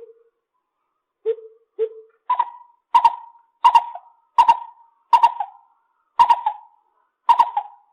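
Lesser coucal calling a series of hollow, pitched notes. A couple of lower notes come first; then, from about two seconds in, come about seven higher notes, roughly one every 0.7 s, each with a short fading tail.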